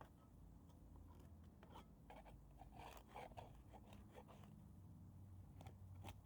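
Faint, scattered rustles and light clicks of things being handled, over a low steady room hum.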